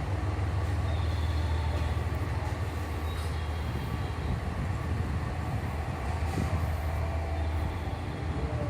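DD51 twin-engine diesel-hydraulic locomotive idling while standing at a platform, a steady low engine hum.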